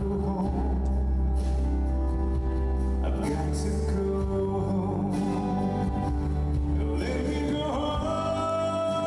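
A male singer singing a slow ballad live over a backing track, ending with a long held note near the end.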